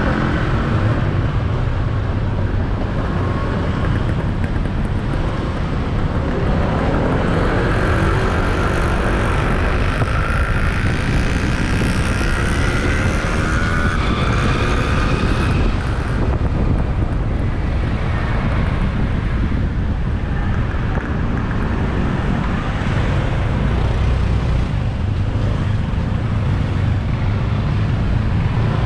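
Motorbike ride through city traffic: the bike's engine running with revs rising and falling, over a steady low rumble of wind on the microphone and the noise of surrounding traffic.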